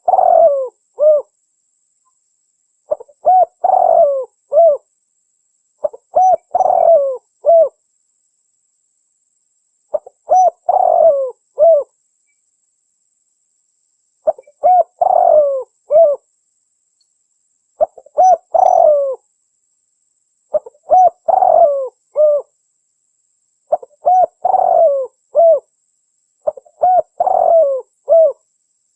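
Spotted dove (tekukur) cooing: a phrase of several short coos, repeated about every three seconds, nine times.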